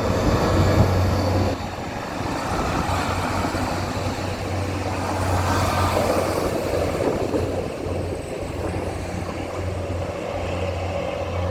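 Northern Ireland Railways Class 3000 diesel multiple unit passing: a steady engine drone with rolling wheel noise, loudest in the first second and a half.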